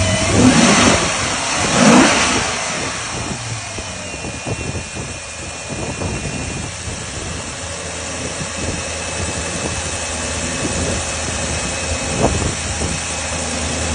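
2009 Maserati Quattroporte S's 4.7-litre V8, still cold from its start, revved briefly twice in the first couple of seconds, then settling back to a steady idle.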